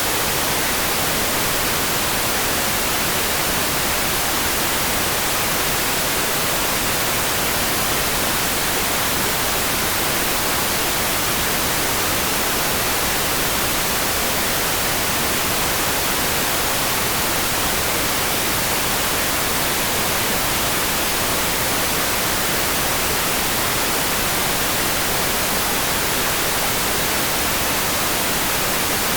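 Steady rain sound for sleep: a dense, even hiss with no single drops standing out, unchanging throughout.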